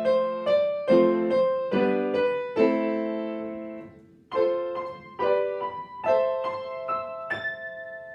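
Solo piano playing a slow, gentle melody over chords. The playing dies away almost to nothing about four seconds in, then starts again, and a final note struck near the end is left to ring and fade.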